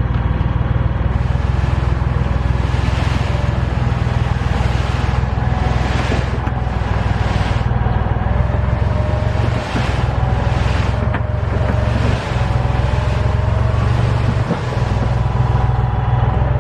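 An engine running steadily, a constant low rumble with a hiss that swells and fades every second or two and a few short dips.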